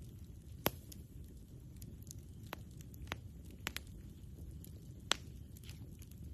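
Campfire burning with a steady low rumble and scattered sharp crackles and pops from the wood, about five in all, the loudest about a second in and another near the end.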